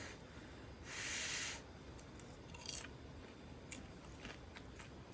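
Handling beef on a fire-pit grill: a brief hissing burst about a second in, then a few light, sharp clicks of utensils.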